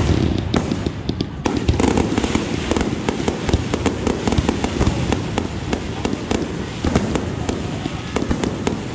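Fireworks crackling in a dense, continuous barrage of sharp pops that sets in suddenly at the start.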